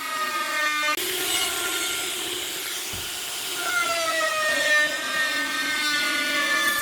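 Power tool motor whining at a steady high pitch while working wood. A noisier stretch with cutting hiss comes about a second in, and the pitch dips a little around the middle.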